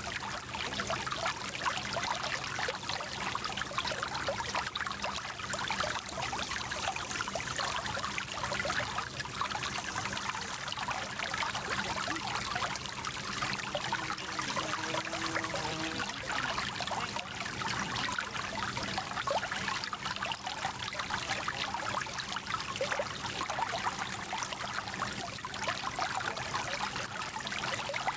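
A small stream flowing, a steady rushing and trickling of water.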